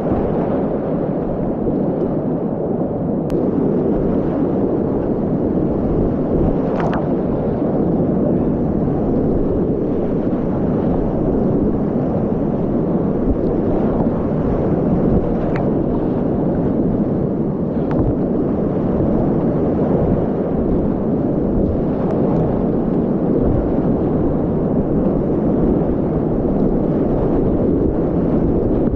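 Whitewater rapids of a steep, continuous Class 4 river, a steady loud rushing noise, with a few short sharp ticks.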